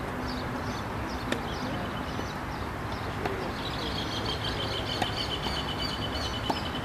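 Birds chirping outdoors, one calling in a fast, even series of short high notes from about halfway through, over a steady low rumble. A few sharp knocks sound, at about a second in, near five seconds and near the end.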